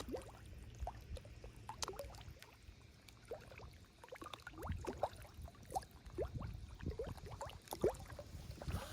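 Water dripping and trickling into a pond: faint, irregular small plops and gurgles, several a second.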